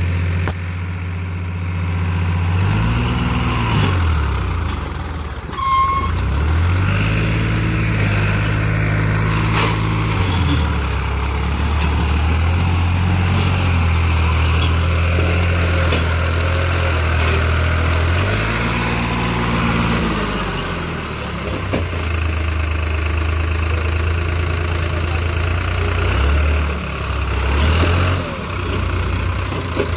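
Tractor diesel engine running steadily and revving up and back down several times, working to pull a trolley stuck in a wet field. A brief high-pitched tone sounds about six seconds in.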